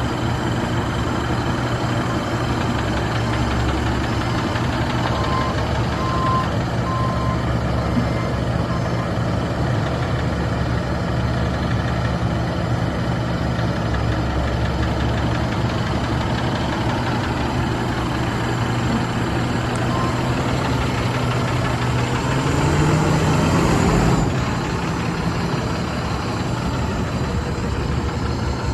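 Ford F650 box truck's Caterpillar C7 diesel running at a steady idle, revved up once about 22 seconds in and dropping back to idle about two seconds later. A few short high beeps sound about five to seven seconds in.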